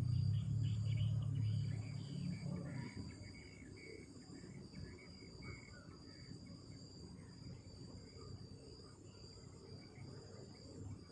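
Night insects trilling in a steady high-pitched chorus. A low rumble fades away over the first three seconds.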